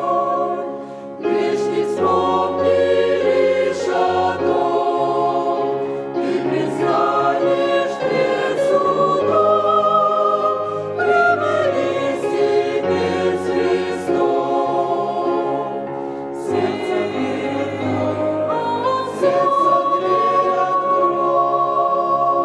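Church choir singing a hymn in parts, moving through held chords and ending on a long sustained final chord near the end.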